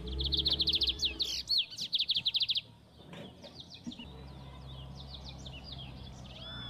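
Songbird singing: a loud, rapid trill of repeated high notes for about two and a half seconds, then softer, scattered chirps and short whistles.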